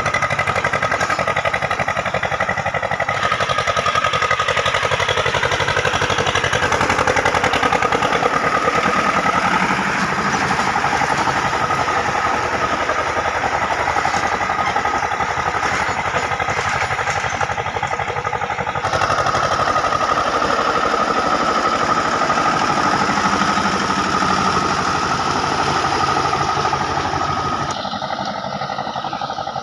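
Sonalika DI 730 mini tractor's diesel engine running steadily. Its tone changes abruptly a few times, and it drops a little in level near the end.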